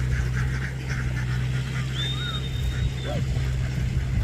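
A flock of domestic ducks quacking in short, repeated calls over a steady low hum, with one long high steady tone lasting about a second, starting about two seconds in.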